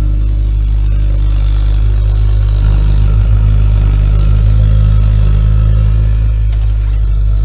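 Ideal Logic gas boiler running with a loud, steady low droning hum, a little louder from about three seconds in. The noise is one that a proper service cures.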